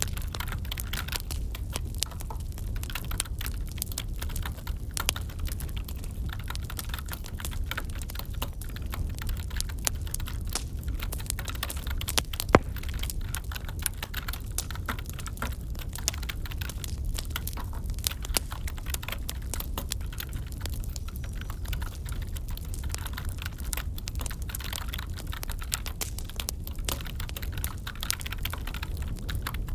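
Crackling wood fire mixed with computer keyboard typing: a dense patter of small clicks over a low steady rumble, with one loud sharp crack about twelve seconds in.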